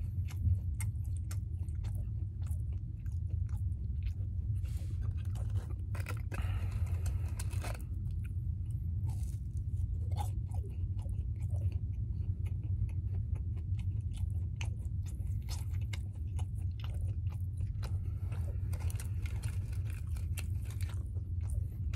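Close-miked chewing of French toast sticks: many short, wet mouth clicks and crunches. A steady low hum runs underneath.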